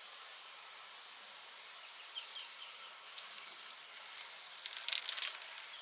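Rural outdoor ambience: a steady hiss with a constant high insect trill and a few short bird chirps about two seconds in. Near the end comes a brief rattling cluster of clicks, the loudest sound.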